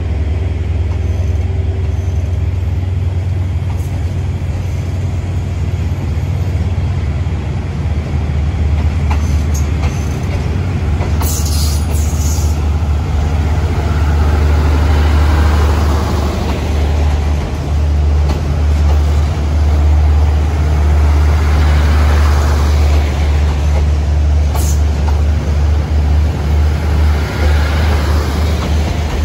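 Passenger coaches of a long diesel-hauled train rolling slowly past: a steady low rumble, with the wheel noise swelling and fading every six or seven seconds as each coach goes by. There is a brief high-pitched squeal or screech of the wheels about eleven seconds in.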